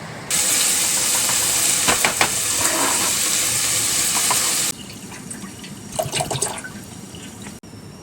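Water running or pouring in a steady hiss for about four seconds, starting and stopping abruptly, followed by a few light clicks and knocks.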